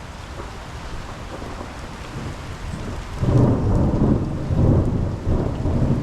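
Heavy monsoon rain hissing steadily. About three seconds in, a loud rolling rumble of thunder breaks in and keeps rumbling: thunder following a lightning flash.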